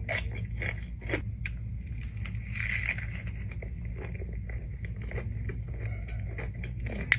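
Close-miked eating: crunchy bites and chewing, with irregular crackling and crunching clicks.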